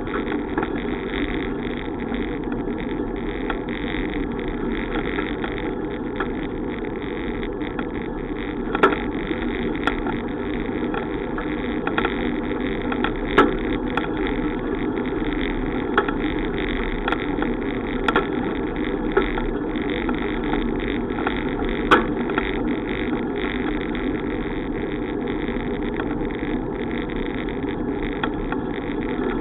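Steady rushing noise of a bicycle ride, wind and tyre noise on the microphone, with scattered sharp clicks or rattles through the middle stretch.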